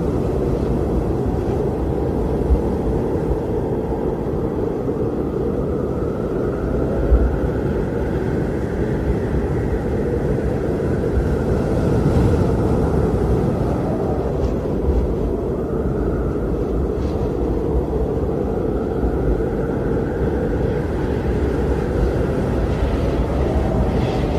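Blizzard wind blowing hard with a deep, steady rumble and a howling whistle that slowly swells and fades several times.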